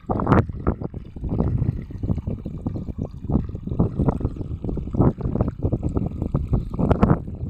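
Water rushing and splashing in irregular surges.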